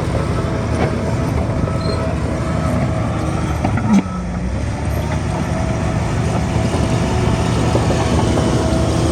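Heavy earthmoving machinery's diesel engine running steadily under load, a low rumble with a steady whine over it. A single sharp knock comes about four seconds in.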